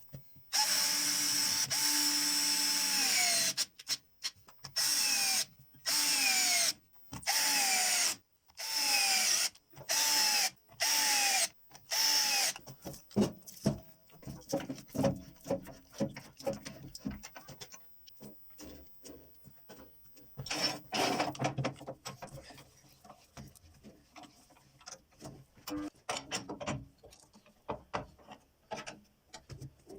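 Small electric power tool run in one long burst and then about seven short trigger pulls, its motor pitch dropping each time it is released. After that, only light knocks and clicks from handling.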